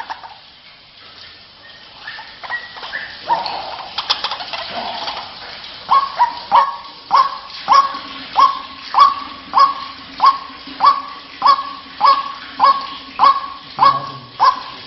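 White-breasted waterhen calling: a few scattered croaking calls, then from about six seconds in a steady, evenly spaced run of sharp, loud notes, nearly two a second. This is the repetitive call used as a lure to draw other waterhens in.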